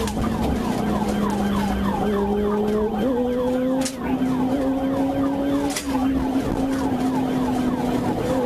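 Police car siren in a fast yelp, about four quick falling sweeps a second, over a steady lower tone that steps up in pitch about three seconds in. Two sharp clicks about four and six seconds in.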